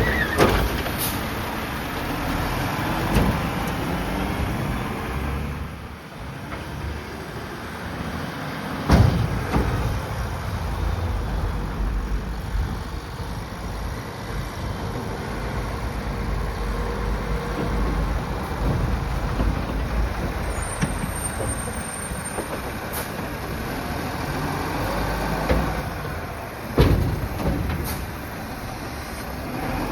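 Mack LR side-loader garbage truck's diesel engine running with a steady low rumble. Two loud sudden sounds break through, about nine seconds in and again near the end.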